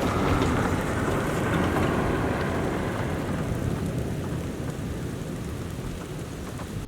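Thunder rumbling and slowly dying away over falling rain.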